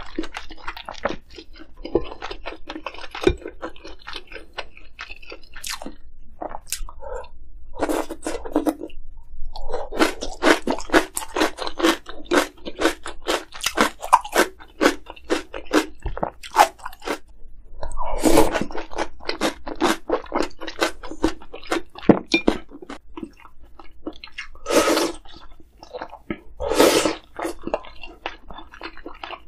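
Close-miked chewing of kimchi, with crisp crunching in long runs broken by short pauses and a few louder, wetter mouthfuls.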